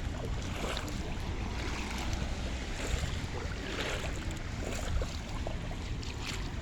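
Wind rumbling on the microphone over a steady wash of moving water, with scattered short splashy sounds.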